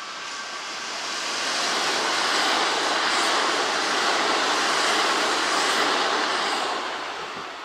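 A Kintetsu electric train passing through the station: the noise builds over about two seconds, holds for about four, then fades away near the end.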